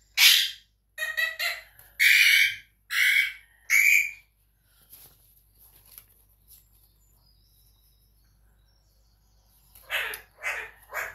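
A bird calling: a run of short separate calls, five in the first four seconds, then a pause of several seconds, then a few more near the end.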